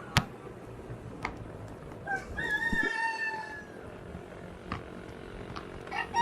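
A rooster crowing once, a long drawn-out call. A few sharp clicks come before and after it, the loudest just at the start.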